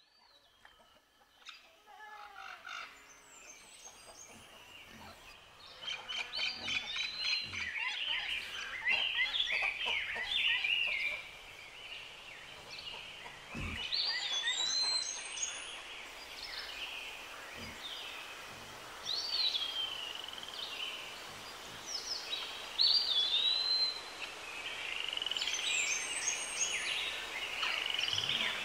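Songbirds chirping and singing: many short, swooping whistled phrases, faint at first and louder from about six seconds in.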